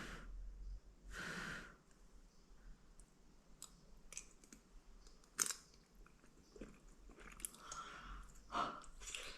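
Faint scattered clicks and small knocks, with two soft swishes near the start, in a quiet small room.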